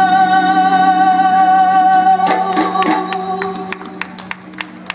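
A male singer holding one long sustained note over a live band's accompaniment in a pop song, the note fading out about three-quarters of the way through, with scattered sharp clicks near the end.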